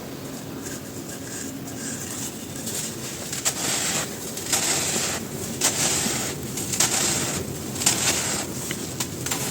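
Dry, dusty crumbly cylinders being crushed and crumbled: a crisp crunching and crackling that thickens after about two seconds, with sharper crunches about once a second.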